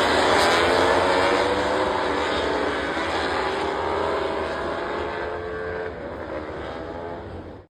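MotoGP race bikes passing at speed, several engine notes overlapping and sliding down in pitch as they pull away, the sound slowly fading before cutting off suddenly at the end.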